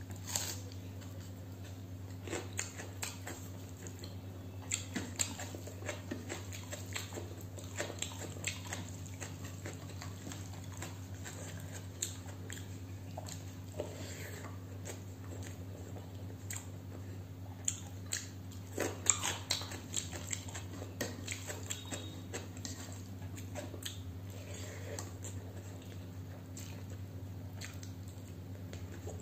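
Close-up biting and chewing of a crispy fried pakora, with irregular crunches and wet mouth clicks and a burst of louder crunches about two-thirds of the way in. A steady low hum runs underneath.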